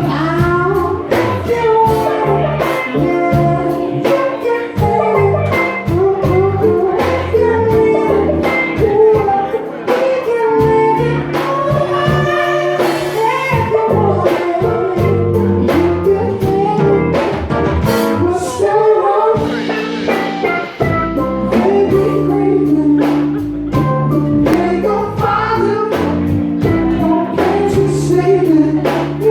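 Live rock band playing a song: a singer's voice over drums, bass and guitar.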